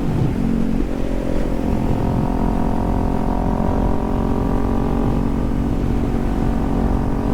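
Kawasaki Z400's 399 cc parallel-twin engine running under way at a steady cruising speed of about 55 mph. Its note breaks briefly just after the start, then holds steady.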